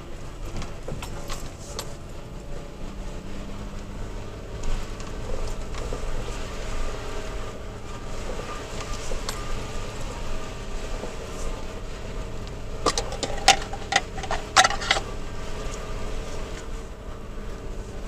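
Toyota Tacoma pickup driving slowly over a rough, potholed dirt trail, heard from inside the cab: a steady low engine and road drone with scattered clicks and knocks of cab and gear rattling, and a burst of loud knocks and rattles a little past the middle as it hits a rough patch.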